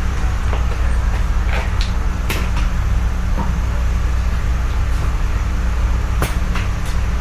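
Inside a Seibu 4000 series train car standing at a station: the steady low hum of the idling train's onboard equipment, with a few sharp knocks and clicks, one about two seconds in and one about six seconds in.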